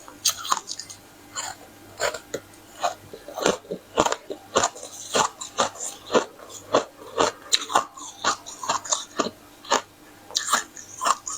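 Close-up crunching and chewing of a crisp tartary buckwheat ice-crisp flatbread. There are sharp, crackling bites and chews about two to three times a second, with no pause.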